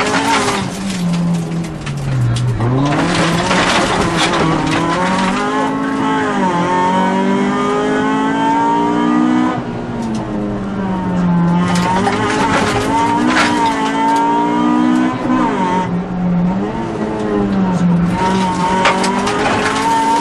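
Rally car engine heard from inside the cabin, revving hard at full throttle, its note climbing and dropping again and again with the gear changes and braking for the bends. Stretches of harsh, rushing noise come over the engine at times.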